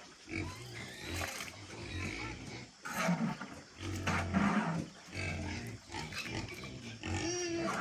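Pigs grunting: a string of short, irregular low grunts, with one longer higher-pitched call near the end.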